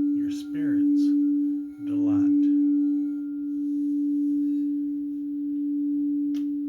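Singing bowl sustaining one steady low tone, its loudness slowly swelling and ebbing. A brief click sounds near the end.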